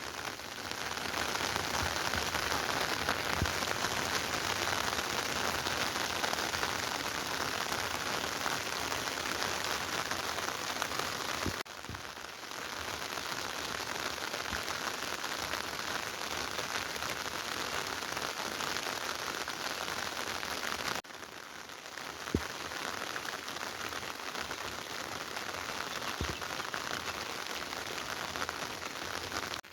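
Steady rain falling on a surface, an even hiss with a few faint knocks, dipping abruptly about twelve seconds in and again about two-thirds of the way through.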